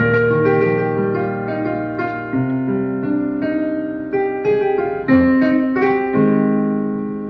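Background piano music: a slow melody of held notes over sustained low bass notes.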